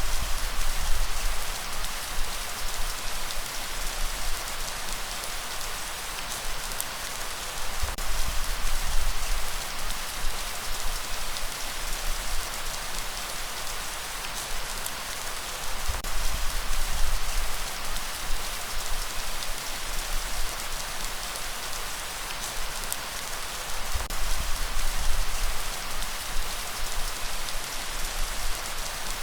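Steady rain falling, an even hiss of many drops. A low rumble swells and fades about every eight seconds.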